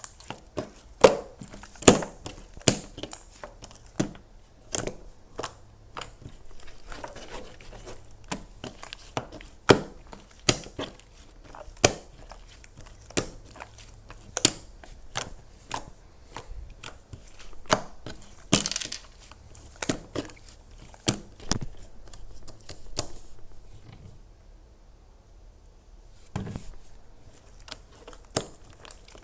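Crisp crunching and crackling from something brittle or crinkly being squeezed and handled close up: many sharp, irregular snaps and clicks, easing off for a couple of seconds a little after two-thirds of the way through.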